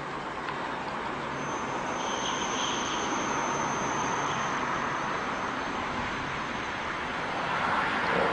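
Steady running noise of a passenger train, with a thin high whine for a few seconds in the first half.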